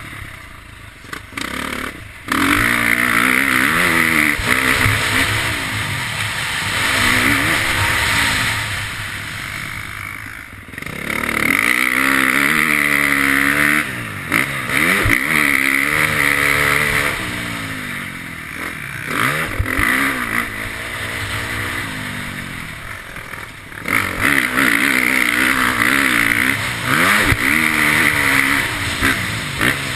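KTM motocross bike engine heard onboard, revving hard and climbing through the gears, with the throttle chopped and opened again several times so that the pitch falls and then rises.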